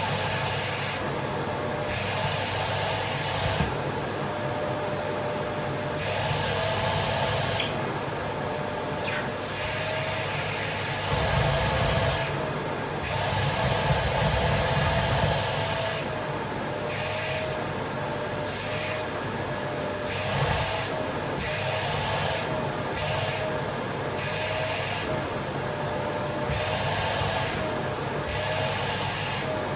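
Vacuum cleaner running continuously, its motor whine wavering slightly in pitch while the rush of air comes and goes in stretches of a second or two, with a heavier low rumble around the middle.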